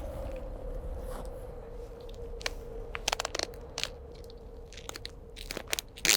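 Crunching in frozen snow: a scatter of sharp crunches, bunched about three seconds in and again near the end, the loudest right at the end.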